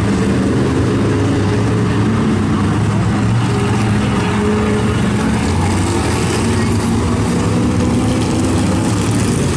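A field of race trucks running at racing speed, several engines at once. Their overlapping notes rise and fall as the trucks come and go.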